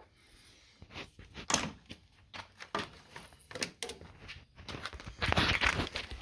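Irregular clicks, knocks and rustling from hands handling the wiring harness and parts on a compact tractor, with a louder, denser stretch of rustling about five seconds in.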